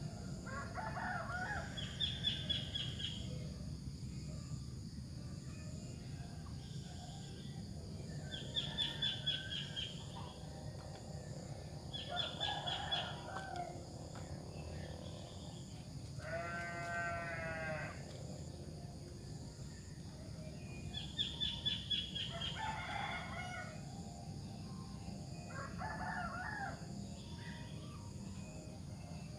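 Sooty-headed bulbul (kutilang) singing in short, lively phrases, each a quick high trill with lower whistled notes, about five times with pauses between. About halfway through, another animal gives a single longer, lower call. A steady low hum runs underneath.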